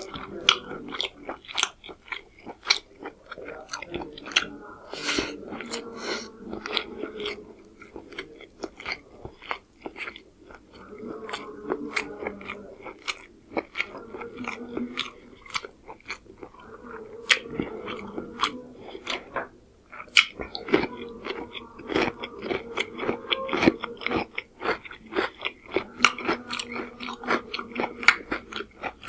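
Close-miked chewing of a mouthful of pulao rice and chicken curry, full of wet mouth clicks and lip smacks that come irregularly, several a second.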